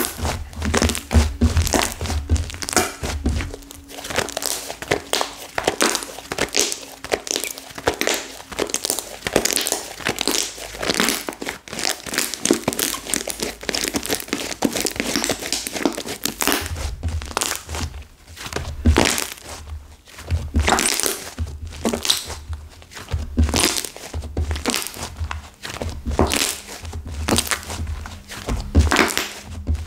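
Hands kneading and squeezing a flora slime with hardened clay mixed through it, giving many sharp crackles and crunches, with low thuds as it is pressed down during the second half.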